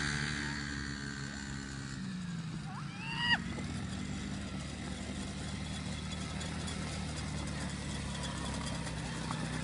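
Small 50–70cc engine of a children's ride-on bike running steadily, its note shifting a little about two seconds in. A brief high-pitched squeal that rises and falls comes about three seconds in.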